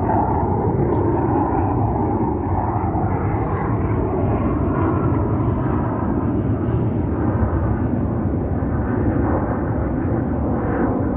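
A 1998 Toyota Tacoma pickup's engine running steadily at idle, a constant low exhaust rumble.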